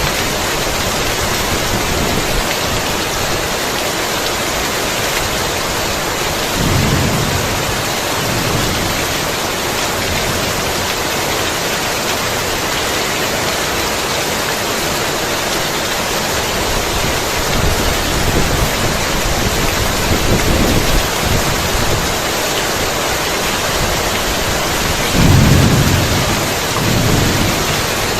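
Heavy rain falling steadily as an even hiss, with low rolls of thunder rumbling several times, the loudest near the end.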